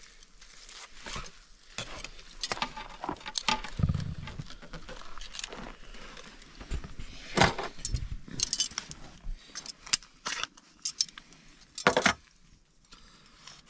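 Scattered metallic clinks and knocks of utensils against a grill and platter as cooked tomahawk beef steaks are lifted off a campfire and set down, with a duller thump about four seconds in and a few sharper clanks later on.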